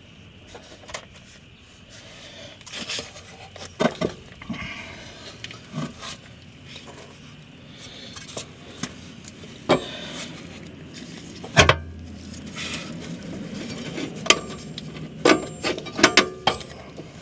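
Scattered metallic clicks and clinks as bolts are fitted and started by hand, with one louder knock about two-thirds of the way through and a quick run of clinks near the end.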